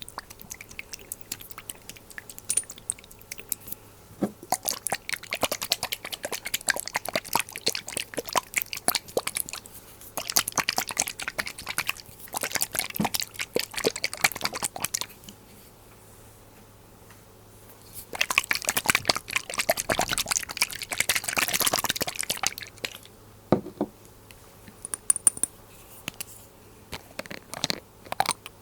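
Glass dropper bottles handled close to the microphone: the dropper and liquid make bursts of fast crackling clicks lasting several seconds each, with a denser, hissier stretch about two-thirds of the way through and a few single taps near the end.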